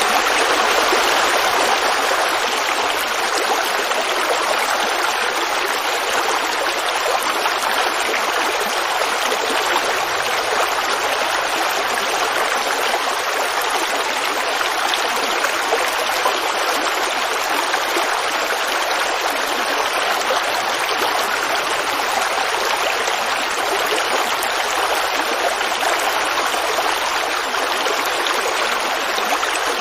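Creek water running and babbling, a steady even rush of flowing water.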